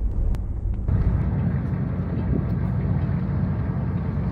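Steady low rumble of a motor boat underway, its diesel engines running, with a noisy wash over it; the sound shifts and grows louder about a second in.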